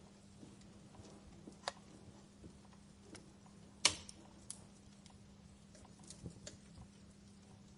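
Wood fire in a fireplace crackling: irregular sharp pops over a low hiss, the loudest pop about four seconds in.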